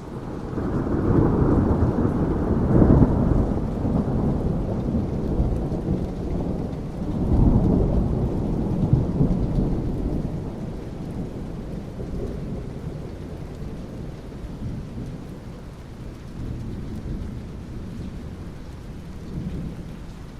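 Rolling thunder over steady rain. A deep rumble swells in the first few seconds, a second roll comes about seven seconds in, and then the thunder dies away, leaving the rain.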